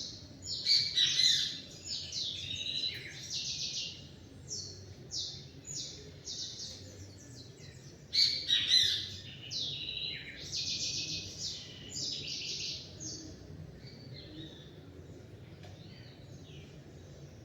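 Songbirds singing, a busy run of short high chirps and trills, with two loud bursts about a second in and about eight seconds in. It thins out to sparse calls near the end, over a faint low rumble.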